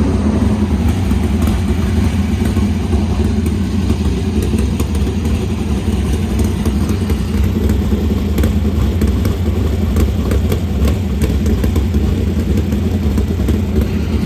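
410 sprint car V8 engine running steadily in the pits, fired up so the oil level can be checked after oil was pushing out the breather; the driver says it shows zero oil pressure at idle.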